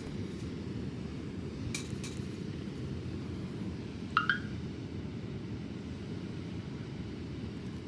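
Two light metallic clinks about two seconds in, then a louder short, slightly rising chirp a little after four seconds, over a steady low rumble.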